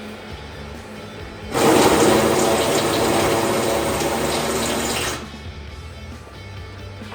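A loud hissing rush starts suddenly about a second and a half in and cuts off sharply about three and a half seconds later, over steady background music.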